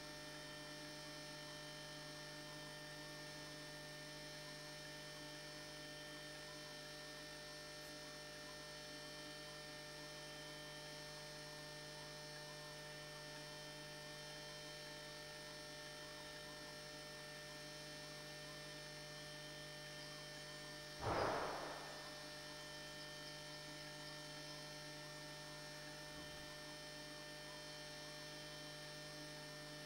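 Steady electrical mains hum from the nest-box camera's wiring, with many even tones. About two-thirds of the way through, a brief rustling burst lasting about a second stands out above it.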